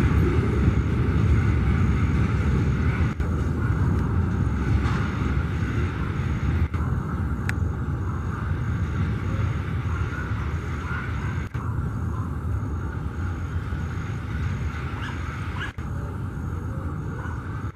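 Freight train of loaded flatcars rolling away on the rails: a steady low rumble of wheels and running gear that slowly fades as the train recedes.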